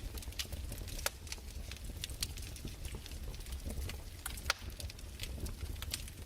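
Crackling fireplace: irregular sharp pops and snaps, a few louder ones, over a low steady rumble.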